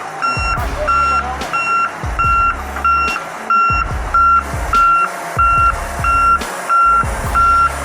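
Heavy vehicle's reversing alarm beeping steadily, one high tone repeated evenly a little under twice a second.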